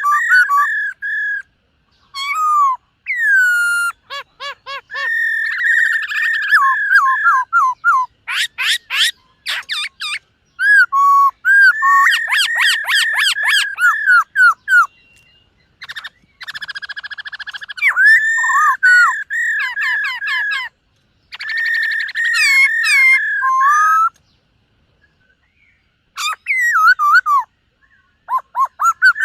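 Black-throated laughingthrush singing loudly: long, varied whistled phrases of quick up-and-down notes and fast repeated notes, broken by short pauses, with a longer pause about 24 seconds in.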